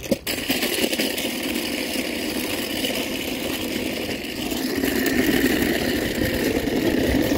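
Vehicle engine and road noise: a steady running drone that starts abruptly and cuts off just after the end.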